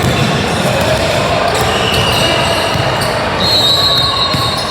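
Basketball game sounds in a gym: a ball bouncing on the court amid a steady din of voices, with two short high-pitched tones, one near the middle and a longer one later.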